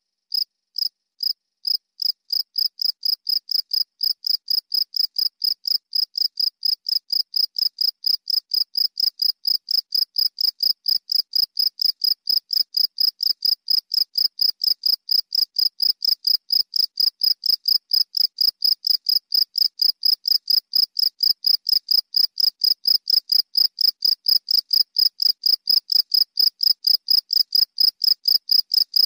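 A cricket chirping in a steady series of short, high-pitched chirps. The chirps speed up over the first few seconds, then keep an even pace of about four a second.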